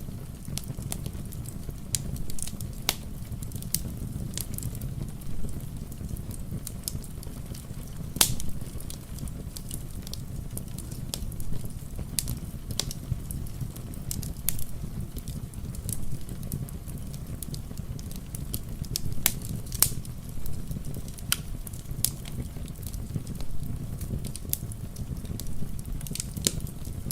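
Wood fire in a fireplace crackling, with irregular sharp pops, a louder one about eight seconds in, over a steady low rumble.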